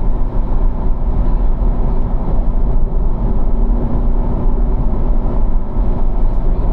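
A Corvette's V8 running steadily at about 3,500 rpm in third gear under light throttle, heard from inside the cabin. It is a deep, even drone with one steady engine note, mixed with road and wind noise.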